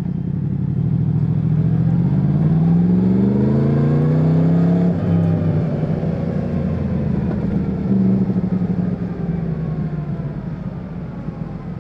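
Yamaha MT-10's crossplane inline-four engine under acceleration, rising in pitch for a few seconds. About five seconds in the pitch drops and then eases down slowly as the bike rolls off.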